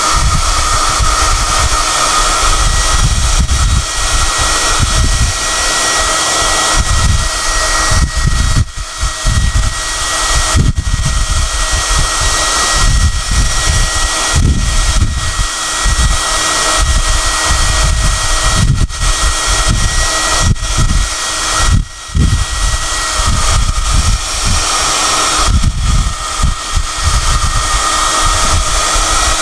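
SOUNATE high-airflow hair dryer (XM-H008/YX-HM008-G) running steadily, a loud whine over a gusty rumble of rushing air. The sound dips briefly twice, once about a third of the way in and once about three-quarters in.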